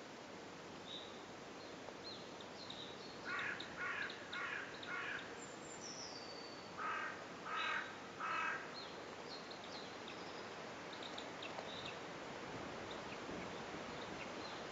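Harsh bird calls: four in a row, then after a pause of about two seconds three more. Small birds chirp faintly over a steady outdoor hiss.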